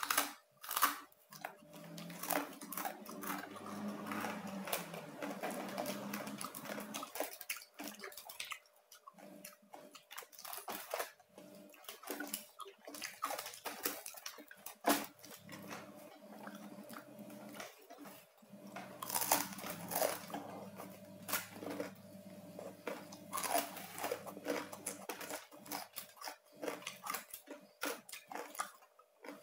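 Close-up chewing of crunchy roast pork skin, with repeated sharp crackles and crunches between quieter chewing.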